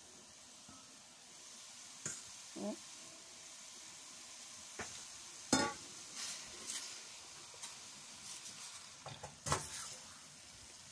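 Chopped fresh tomatoes sizzling in a hot steel saucepan over sautéed onion and olive oil, just added and being stirred with a silicone spatula, with a few sharp knocks against the pan, the loudest about halfway through and another near the end.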